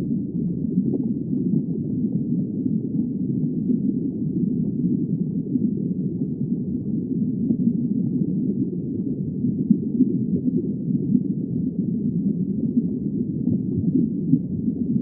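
Muffled underwater ambience: a steady, low rumbling wash of water with no high sounds in it.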